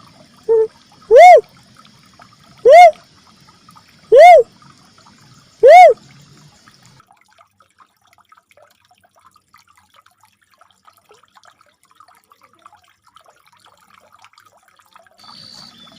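Recorded call of a red cuckoo-dove (uncal merah), used as a bird lure: a single note that rises and falls, repeated about every second and a half, five times, with one short lower note about half a second in. The calls stop about six seconds in, leaving only faint hiss.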